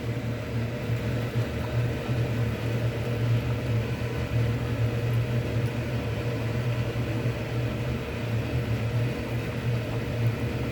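Steady low mechanical hum with a faint hiss over it, like a kitchen appliance or fan running.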